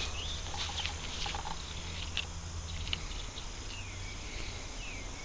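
Quiet outdoor ambience: a few faint high chirps and soft ticks over a low steady hum that fades out about three seconds in.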